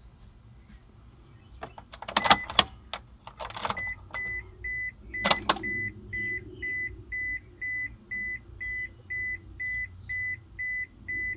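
Starter clicking a few times as the key is turned, without the engine cranking, on a no-crank, no-start 2000 Honda Passport V6. From about four seconds in, a high electronic beep repeats evenly, about two and a half times a second.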